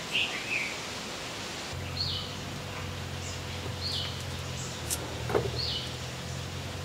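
A bird calls over a steady outdoor hiss: a quick falling call at the start, then a short rising-and-falling note repeated about every two seconds. A single sharp knock about five seconds in, a knife striking the wooden chopping block, is the loudest sound.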